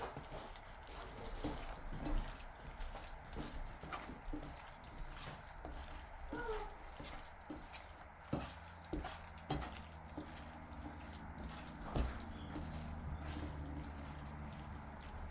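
Cooking oil being added to raw seasoned chicken thighs: liquid dripping with scattered small wet clicks and taps. A low steady hum comes in about eight seconds in.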